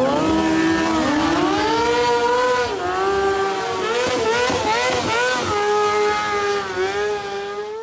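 Sport motorcycle engine revving up and down over and over, its pitch rising and falling. It cuts off suddenly at the end.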